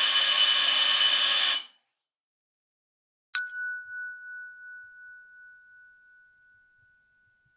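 An electric buzzer doorbell giving a steady buzz that cuts off about a second and a half in. After a pause, a single doorbell ding is struck and rings out, fading slowly with a wavering level over about three seconds.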